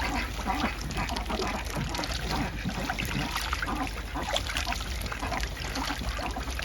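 Duck bathing in a small pool: water splashing and dribbling in quick, irregular bursts.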